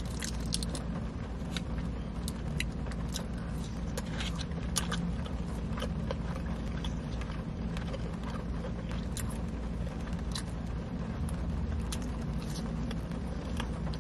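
Steady low hum of a car's idling engine heard inside the cabin, with scattered small clicks and crackles from the handling of a plastic dip cup and food.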